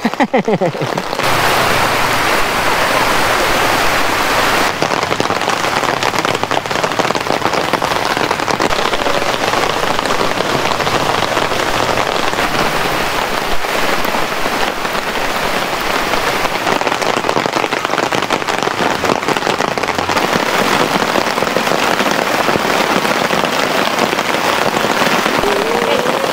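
Rain falling steadily and heavily, a dense, even hiss of drops.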